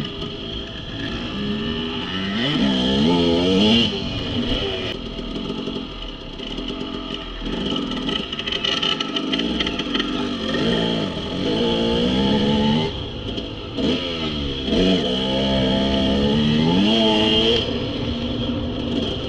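Dirt bike engine revving hard, its pitch climbing and dropping again and again as the throttle is opened and closed.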